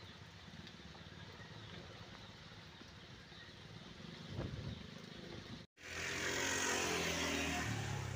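Motor vehicle engine: a faint, steady engine rumble, broken by a sudden cut about two-thirds in. Then a much louder engine passes close, its pitch falling as it goes by.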